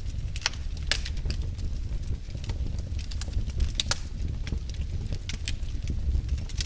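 Wood fire crackling in a fireplace: irregular sharp snaps and pops, several louder than the rest, over a steady low rumble of the burning fire.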